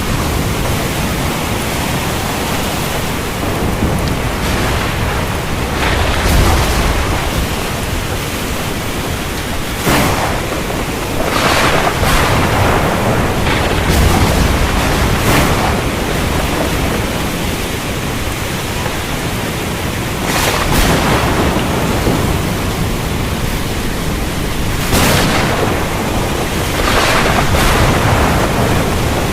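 Heavy rain falling steadily, with thunder cracking and rumbling several times over it.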